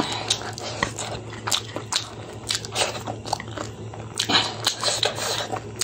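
Close-up eating sounds: a person chewing food with the mouth, with many short, irregular wet clicks and smacks, over a low steady hum.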